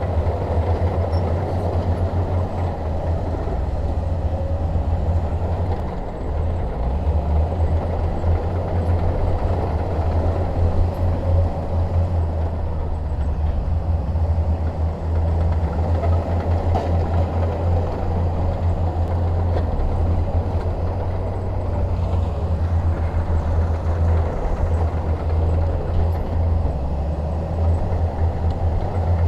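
Shantui DH17 bulldozer's diesel engine running with a deep, steady rumble that wavers slightly in loudness.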